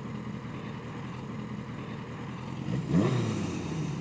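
Yamaha 750 Seca's inline-four engine running under way, its revs climbing quickly about three seconds in and then dropping back.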